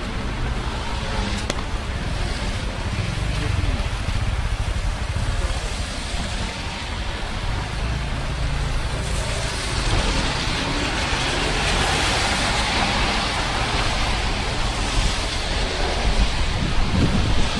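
Rain and road traffic on wet streets: a steady hiss over a low rumble. The hiss grows louder about ten seconds in.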